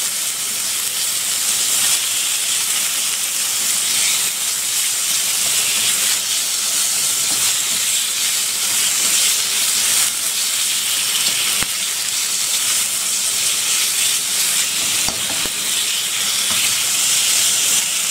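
Strips of beef in hoisin sauce frying in a hot wok: a steady sizzle, with the plastic spatula scraping and turning the meat now and then.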